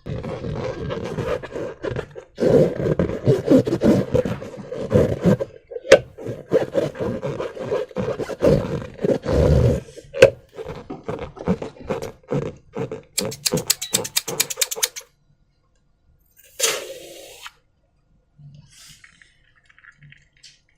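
Slime being squeezed through a rubber balloon: buzzing, sputtering squelches with many sharp crackles, ending in a fast rattle of clicks. One short burst follows a little later, then only faint wet sounds.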